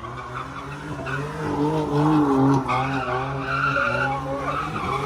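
A car spinning donuts: its tires squeal with a wavering pitch over the running engine, growing louder about two seconds in.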